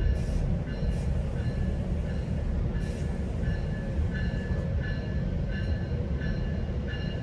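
GO Transit commuter train in motion, heard on board: a steady low rumble with short, high ringing notes repeating about twice a second.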